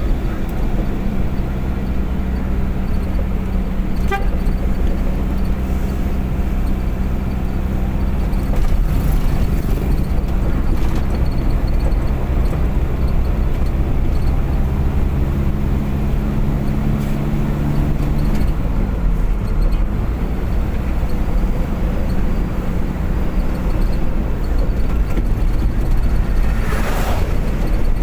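A vehicle driving at speed, with steady engine and road noise. A low steady tone, such as a horn, sounds for about three seconds just past the middle.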